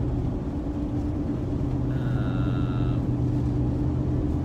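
Steady drone of a car's engine and tyres heard from inside the cabin while driving, with a low hum underneath. A faint high tone sounds for about a second midway.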